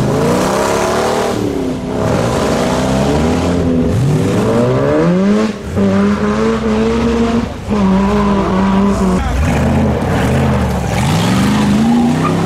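Car engines revving hard as cars accelerate away, the pitch climbing again and again through the gears, with a couple of brief dips in loudness about halfway through.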